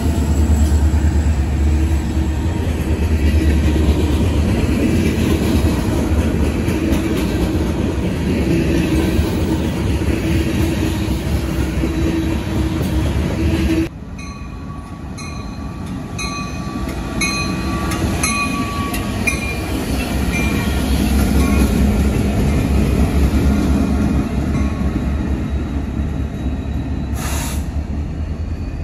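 A BNSF GE C44-9W diesel-electric locomotive runs close past with a loud, steady engine rumble. It then gives way abruptly to a quieter Union Pacific freight approaching, its rumble building, with a regular ringing tick about once or twice a second for several seconds.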